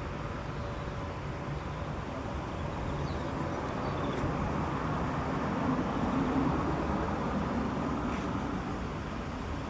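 Steady low rumble of road traffic that swells in the middle as a vehicle passes, with a few faint bird chirps above it.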